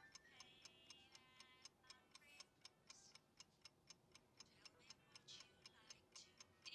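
Faint clock ticking at a quick, steady pace, with soft music notes underneath.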